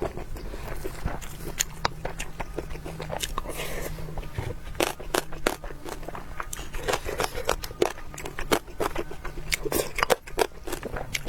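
Close-miked eating: mouth chewing with many short wet smacks and clicks, several a second.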